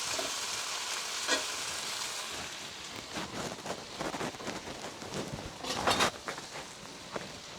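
Sliced chicken sizzling as it fries in oil on high heat. From about three seconds in, stirring adds a run of scrapes and knocks against the pan, loudest near six seconds.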